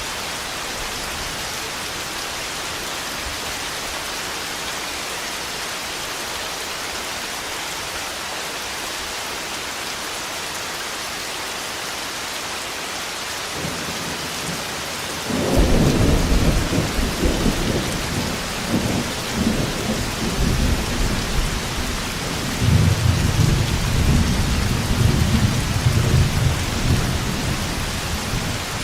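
Steady heavy rain hiss, then about halfway through a loud rolling thunderclap breaks in and rumbles on to the end, swelling again near the end.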